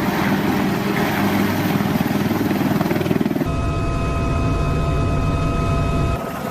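AH-1Z Viper attack helicopter running, its twin turboshaft engines and rotors giving a dense, rapid low pulsing. About three and a half seconds in, the sound changes abruptly to a heavier pulsing with a steady high turbine whine over it, which falls away near the end.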